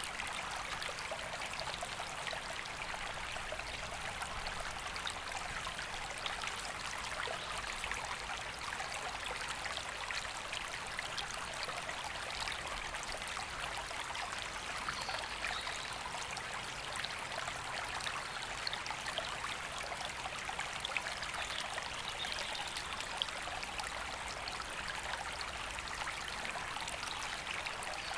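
A river flowing steadily over stones, its rushing water an even hiss with small splashes and trickles.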